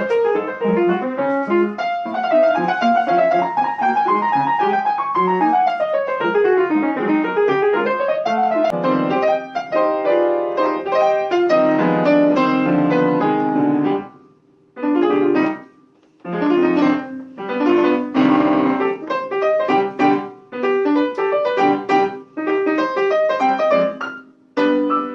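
Piano playing: quick runs that sweep down and back up over the first several seconds, then fuller chords, and from about 14 seconds in short phrases broken by brief pauses.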